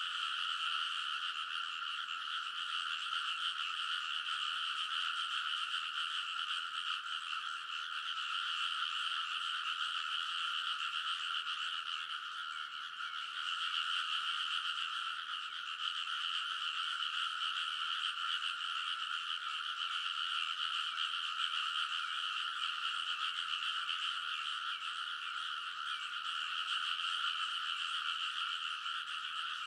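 A rice-paddy frog chorus: many frogs calling at once in a dense, unbroken din that stays steady in level.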